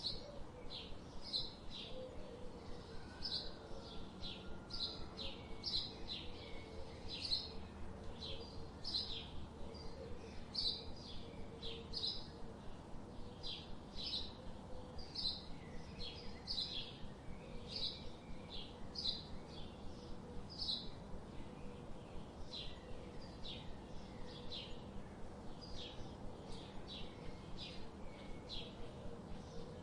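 Small birds chirping: short, high chirps repeated about one or two a second, over a steady faint background hiss.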